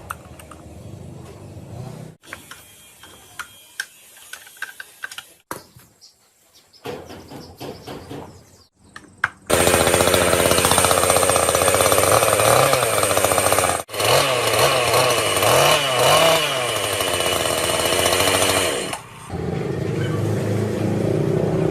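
Scattered clicks and knocks of handling, then, about nine seconds in, a Stihl chainsaw's two-stroke engine running loud and revving up and down in waves. It cuts out for an instant, then settles to a lower, steadier run near the end.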